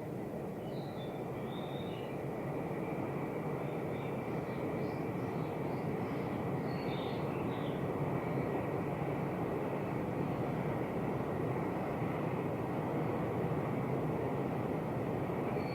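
Distant train running, a steady rumble that slowly grows louder, with small birds chirping faintly over it.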